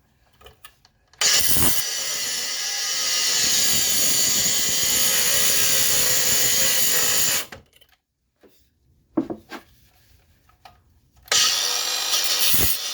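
Handheld power tool cutting through metal on a car's front suspension, running in two stretches: about six seconds starting a second in, then a pause with a few clicks and knocks, then running again from about eleven seconds.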